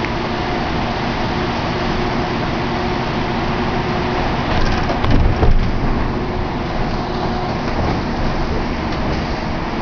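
Steady motor-vehicle noise with a few faint steady tones in it, and a louder low rumble about five seconds in.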